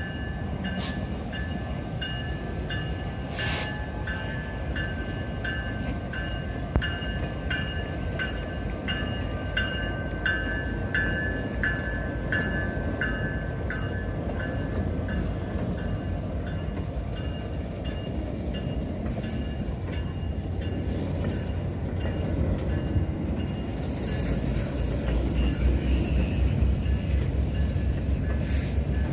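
Train passing with a steady rumble, while a bell rings evenly at about one and a half strikes a second and fades away about halfway through. Near the end the train gets louder, with a hiss on top.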